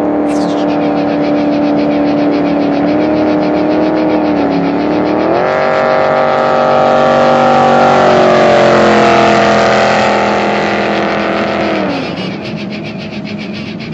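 Jet boat engine running loud, holding a steady pitch, then revving up about five seconds in; it is loudest past the middle as its pitch slides down, and it drops off about twelve seconds in.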